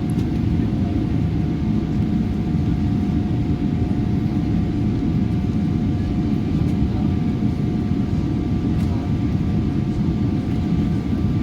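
Boeing 777 cabin noise with the GE90 engines running at taxi power: a steady low rumble with a thin, steady whine over it.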